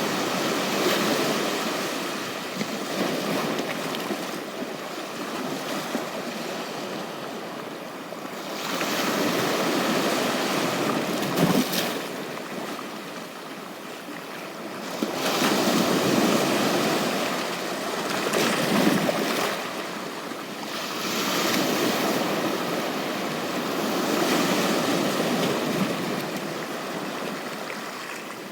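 Small ocean waves breaking and washing up a beach, the wash swelling and fading every several seconds.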